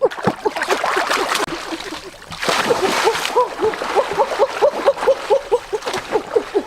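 Water splashing and gurgling, with a quick run of short bubbling blips, several a second, and a louder splash about two and a half seconds in.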